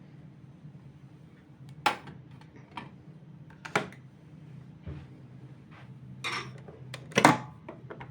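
Kitchenware being handled: a series of separate knocks and clinks, the loudest near the end, over a low steady hum.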